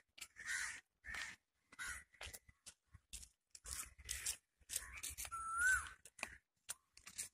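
Birds calling: a run of short harsh calls repeated about every half to three-quarters of a second, with one clear whistled note that rises and dips about two-thirds of the way through.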